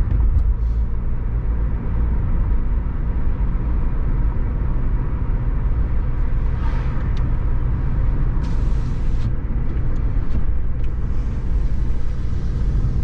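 Car driving along a road, heard from inside the cabin: a steady low engine and tyre rumble. A higher hiss comes in briefly about eight and a half seconds in, and again from about eleven seconds.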